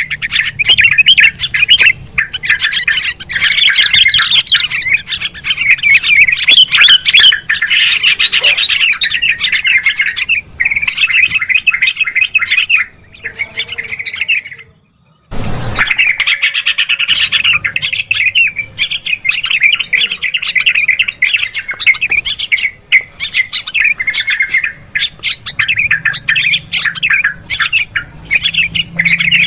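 Bird-lure recording of noisy bulbuls, yellow-vented bulbul and sooty-headed bulbul, chattering and chirping densely and rapidly. About halfway through the calls break off for a couple of seconds, then restart with a sharp click.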